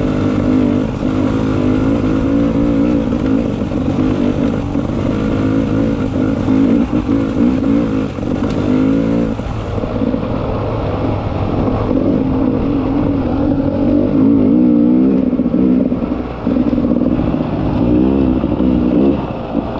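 Beta 300 RR two-stroke enduro motorcycle engine running under constantly changing throttle, the revs rising and falling, with brief drops in engine sound about halfway through and again a few seconds before the end.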